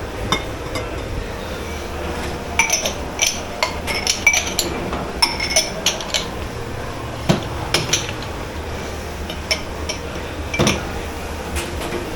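Crockery, pots and cutlery clanking and clinking as they are handled and stacked at a commercial kitchen dish pit. The clanks come in a busy run through the middle, with another loud one near the end, over a steady low hum.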